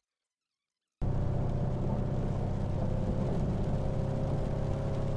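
A vehicle engine running steadily, a low hum with a noisy haze over it, cutting in suddenly about a second in after dead silence.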